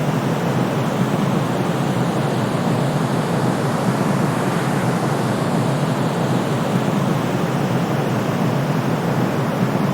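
Steady sleep-aid white noise, an even, unchanging hush weighted toward the low end with little hiss on top.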